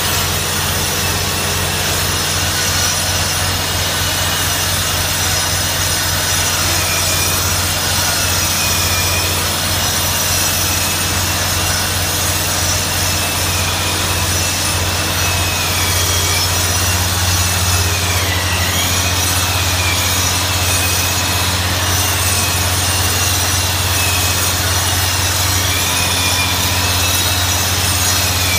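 A 7-inch right-angle concrete hand grinder grinding concrete while a Ruwac WNS2220 industrial vacuum draws the dust off it. The sound is a loud, steady mix of motor noise and grinding, with a low hum under it and a high whine that wavers and dips in pitch now and then.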